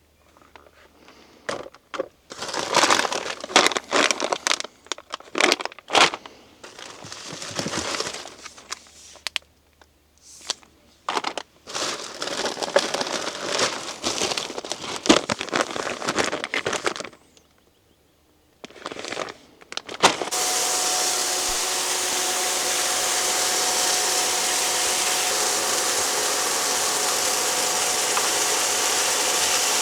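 Irregular crinkling and rustling, like packaging or other material being handled. Then, about twenty seconds in, a steady loud hiss sets in with a faint hum of two tones under it.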